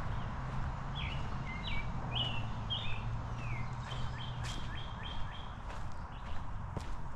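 Small birds chirping: a quick run of short high notes, some sliding down in pitch, over a steady low background noise.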